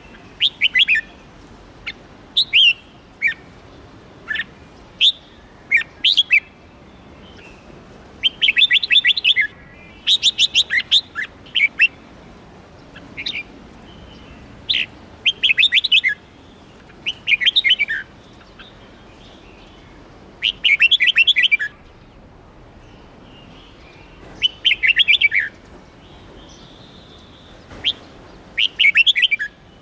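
Red-whiskered bulbul singing: short, loud phrases of quick, sharp notes repeated every couple of seconds, some phrases a rapid run of notes lasting about a second.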